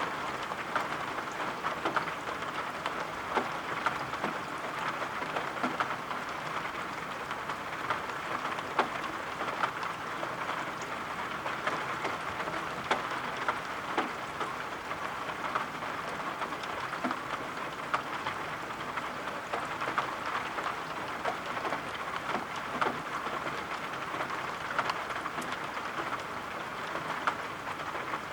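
Steady rain, an even hiss with many scattered sharp taps of single drops.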